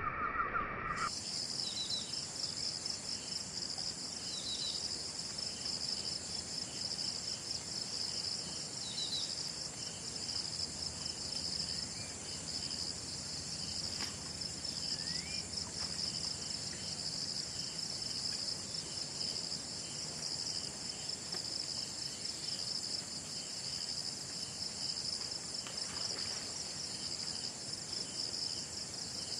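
Steady, dense chorus of insects: a high shrill buzz that sets in abruptly about a second in, with a few faint short chirps in the first ten seconds.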